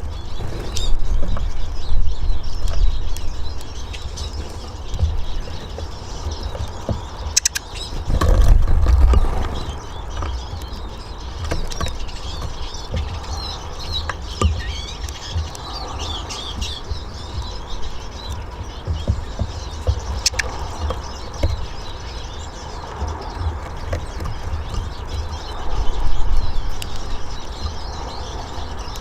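Eurasian siskins twittering faintly and fluttering around a balcony bird house, with scattered sharp clicks. Loud low rumbling thumps come about a second in, around eight seconds in and near the end.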